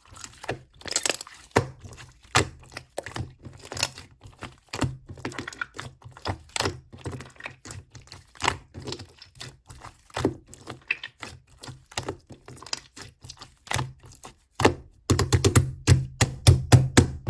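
A run of sharp, irregular clicks and knocks, a few a second, coming thick and fast and louder near the end.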